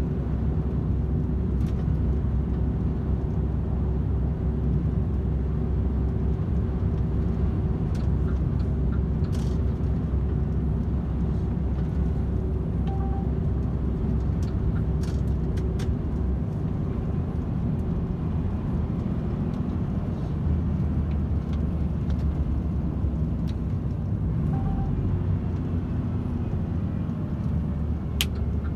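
DAF XF 510 truck's diesel engine and tyre noise at a steady motorway cruise, heard from inside the cab as an even low rumble, with a few faint clicks.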